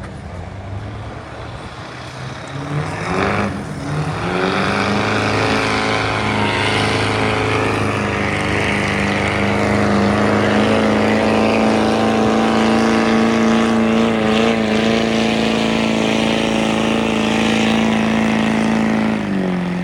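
Stock diesel pickup truck's turbocharged engine at full throttle pulling a sled: it revs up about three to four seconds in, holds a steady high pitch through the pull, and cuts off suddenly near the end.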